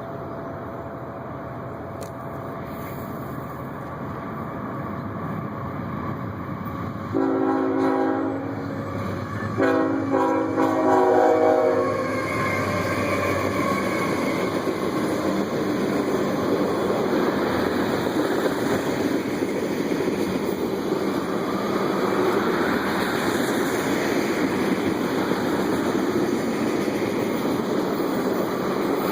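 CSX freight train approaching with its locomotive horn sounding two blasts about seven seconds in, a short one and then a longer one. Then the steady noise of the tank cars rolling past.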